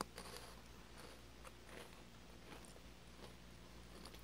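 Faint, irregular crunching of a person biting and chewing a lemon Pocky biscuit stick.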